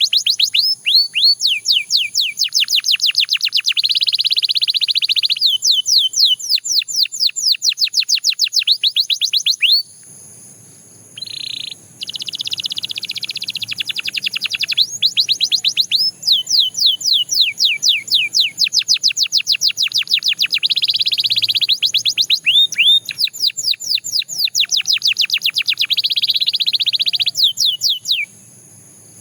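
Belgian canary singing: long, rapid trills of quick down-slurred notes run together with buzzy rolls. The song breaks off briefly about ten seconds in, then stops about a second before the end.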